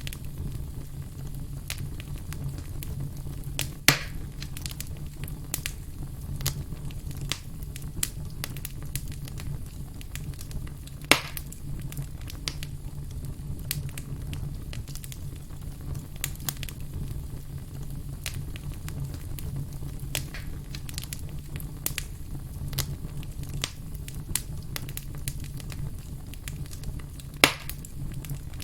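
Wood fire crackling steadily with many small snaps and three louder pops spread through, over a steady low rumble.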